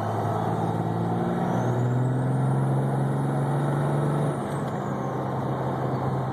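Diesel pickup engine pulling hard under load with its big twin turbochargers (S362/S475) spooling, a high whine climbing over the engine. About four seconds in the engine note drops and the turbo whine falls away as the throttle comes off.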